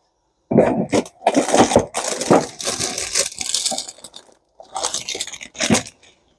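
Sheets of paper rustling and crinkling as a stack of schematics is leafed through, in two spells separated by a short pause.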